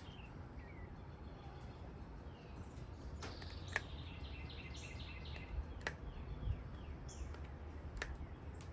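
Birds chirping over a low steady rumble, with a few sharp clicks in between.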